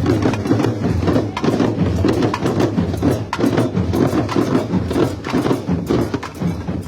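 Percussion-driven carnival music: fast, dense drum strikes over a steady low bass.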